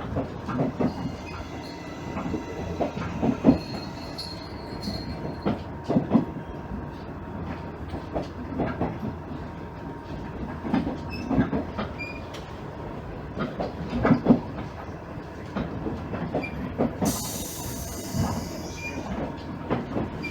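Running sound heard inside a JR East KiHa 110-series diesel railcar, with the wheels knocking irregularly over rail joints and points. A thin, high squeal comes in briefly about four seconds in, and a short burst of hiss comes about seventeen seconds in.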